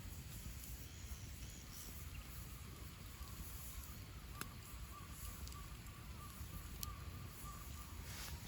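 Wood campfire burning in a fire pit, faintly crackling, with a few sharp pops and a low rumble. A faint drawn-out tone sounds through the middle.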